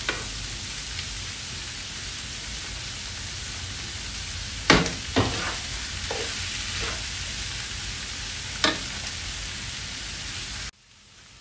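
Cauliflower rice with diced vegetables and fish cake sizzling in a hot wok while being stir-fried, with several sharp knocks of the spatula against the pan about halfway through. The sizzle cuts off abruptly near the end.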